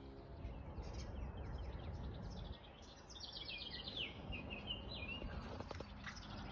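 A songbird singing a phrase of quick notes that step down in pitch, about three seconds in, over a low steady rumble of wind on the microphone.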